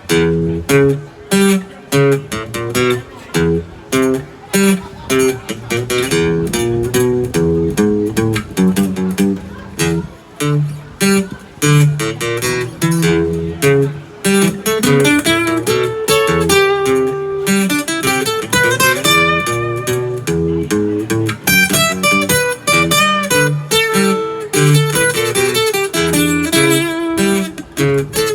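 Instrumental guitar music: strummed chords and single-note lines, with notes sliding in pitch around the middle.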